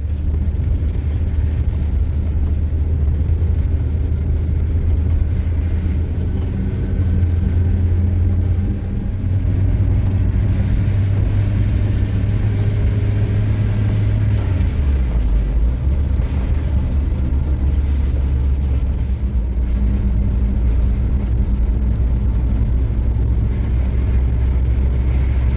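An engine running steadily under load, its low drone dropping in pitch a little past halfway through and staying lower.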